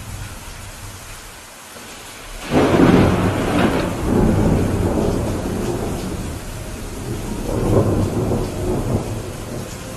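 Steady rain with a sudden thunderclap about two and a half seconds in, rumbling on for several seconds and swelling again near the end.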